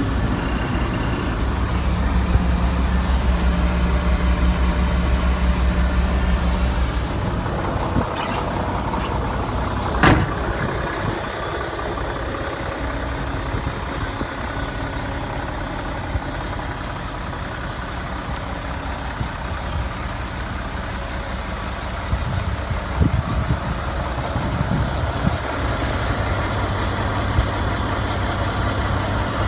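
Diesel engine of a 2004 Mack concrete mixer truck running at idle after start-up. It runs with a heavier low rumble for about the first seven seconds, then settles to a lighter idle. There is a single sharp knock about ten seconds in.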